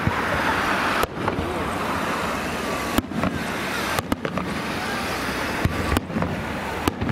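Aerial firework shells bursting: a series of sharp bangs about one to two seconds apart, over a constant rushing background noise.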